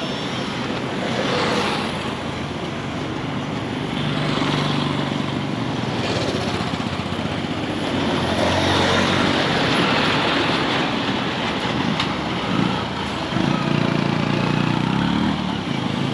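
Street traffic: vehicles passing, the engine noise swelling and fading, with a low engine hum growing louder a few seconds in and again near the end.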